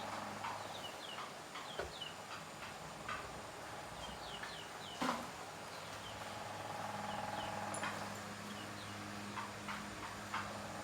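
Faint, short chirping calls repeat over a steady low hum, with a few sharp clicks; the loudest click comes about five seconds in.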